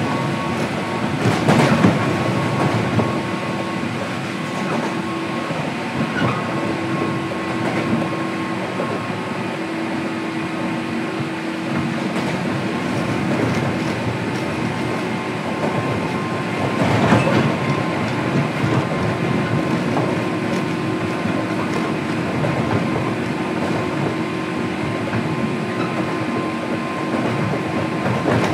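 Running sound inside a JR Kyushu 103 series electric train's motor car at steady speed: rumble of wheels on rail with a steady hum from the traction motors and gears. Louder knocks from the wheels come about two seconds in and again about seventeen seconds in.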